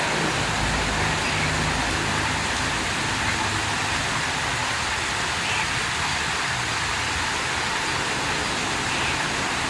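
Steady rush of water flowing out of a small lake, an even hiss with a low rumble underneath.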